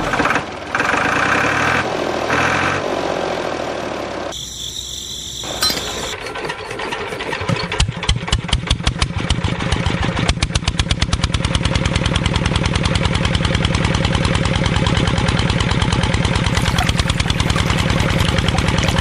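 Diesel engine of a DIY tractor starting up about seven seconds in. Its slow firing beats quicken and settle into a fast, steady running rhythm.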